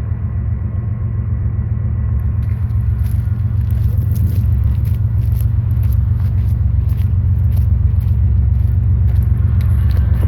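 Slow freight train rolling past: a steady, loud low rumble, with sharp clicks and rattles from the wheels and cars starting about two and a half seconds in.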